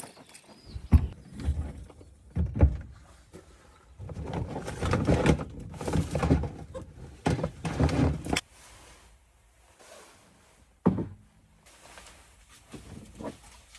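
Handling noise: a run of knocks, thuds and rustling, busiest in the middle, then one sharp knock and a few softer taps.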